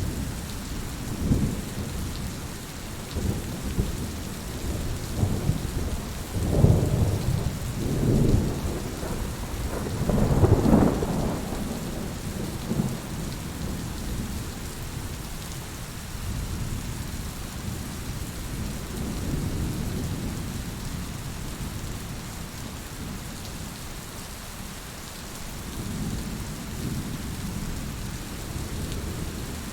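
Heavy rain falling steadily, with rolling thunder rumbling through the first half, loudest about ten seconds in, and a fainter rumble near the end.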